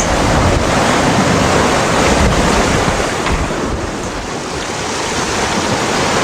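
Strong wind buffeting the microphone over the rush of sea water past a sailboat's hull as it sails fast in 20-plus knots of wind, easing slightly around the middle.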